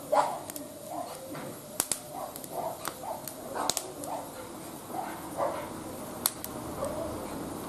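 Wood fire burning in a barbecue grill, crackling with scattered sharp pops. Under it runs a string of short, repeated calls.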